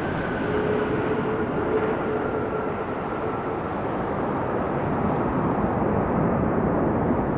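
Boeing 777-200ER's twin Rolls-Royce Trent 895 jet engines rumbling as the airliner lands, with a fan whine slowly falling in pitch and fading. The rumble grows a little near the end.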